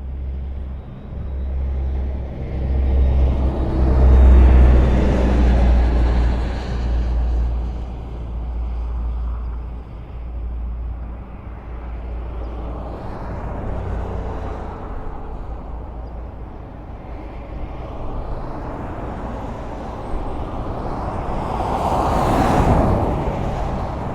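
Highway traffic: a steady rumble of tyres and engines, with a vehicle passing close about four seconds in and another near the end.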